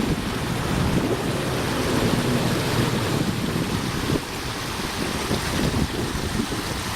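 Wind buffeting the microphone: a steady, rough, gusty rumble with no distinct tone.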